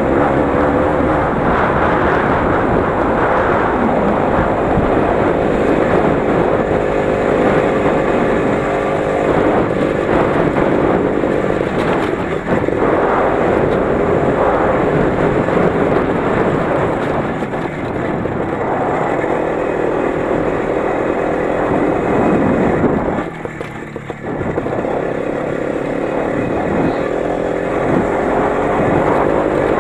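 Motorcycle engine running under load while riding, its pitch rising and falling with throttle; the engine note drops away briefly about three-quarters of the way through, then picks up again.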